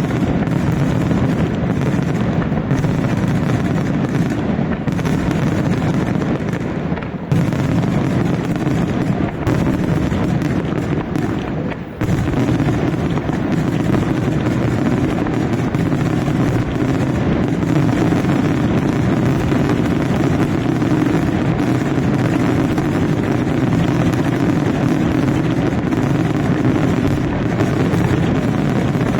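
A fireworks display in a dense, continuous barrage, the blasts running together into a steady loud roar. It eases briefly twice, at about 7 and 12 seconds in.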